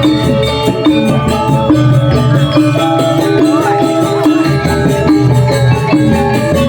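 Balinese gong kebyar gamelan playing a tabuh: bronze metallophones and gongs ringing sustained, interlocking tones over a deep steady low tone, with a quick even pulse of light strokes on top.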